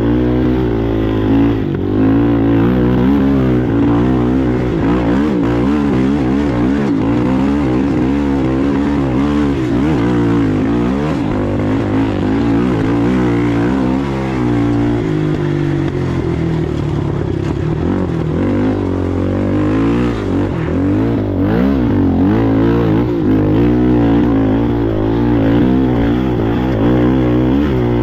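Racing ATV engine running hard, its revs rising and falling constantly as the throttle and gears change.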